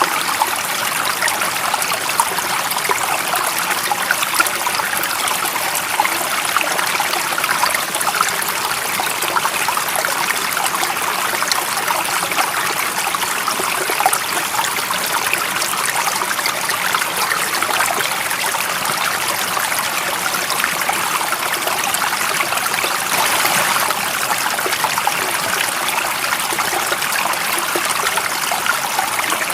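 A small stream running steadily over stones, a continuous babble and trickle of water.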